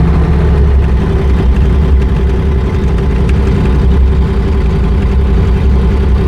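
JoyT5 JT5350 3.5-ton mini excavator running and travelling forward on its tracks in single (low) speed: a steady low engine hum with a steady whine over it.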